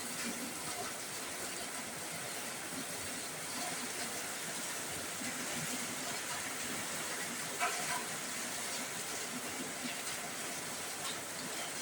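Heavy rain falling steadily on a roof, a constant hiss with occasional louder single drop strikes, the clearest about seven and a half seconds in.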